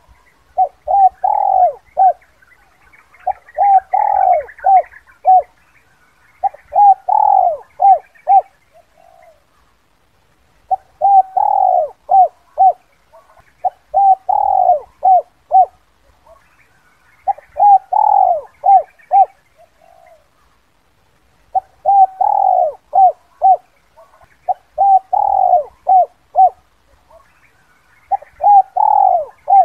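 Spotted dove (tekukur) giving its 'kuk 2' cooing call over and over. Each phrase is a few short coos around a longer one, and the phrase repeats about every three and a half seconds. Faint chirps of other birds come between the phrases.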